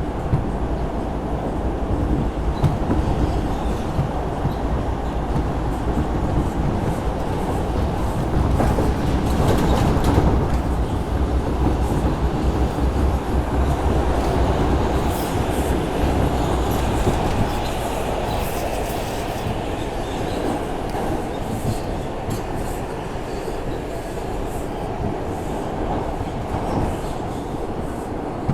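R142 subway car running at speed, heard from inside the car: steady rumble of wheels on the rails with rail-joint clatter. There are brief high squeals from the wheels around the middle.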